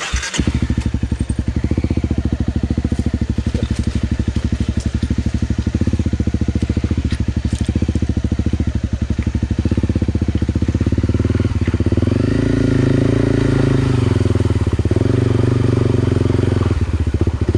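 Honda CRF250L's single-cylinder four-stroke engine starts abruptly and runs with a fast, even firing beat as the bike moves off into a shallow, rocky river. About twelve seconds in the revs rise and hold, wavering, as the bike pushes through the water over the stones.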